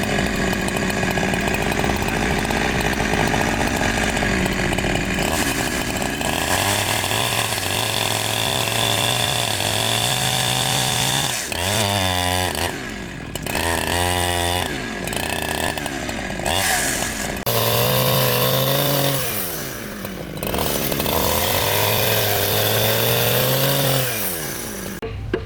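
Small petrol engine of a chainsaw-type woodworking tool running under load, its pitch rising and falling several times as it is throttled, cutting wood; it stops near the end.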